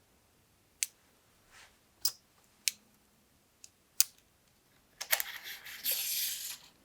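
Hands working with bike tools and parts: a few sharp, separate clicks about a second apart, then a rustling hiss for about two seconds near the end.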